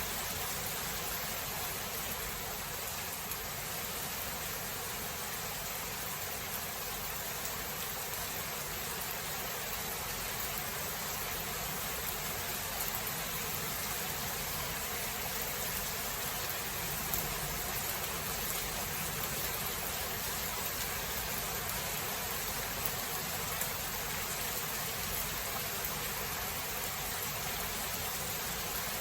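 Steady, even rain falling during a thunderstorm, with no thunder.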